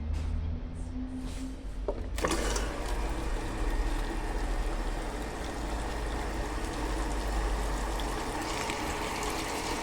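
Consul Facilite 11 kg washing machine filling with water. About two seconds in, the inlet water starts rushing into the tub with a sudden onset, then runs steadily as the machine fills toward its set water level for a rinse.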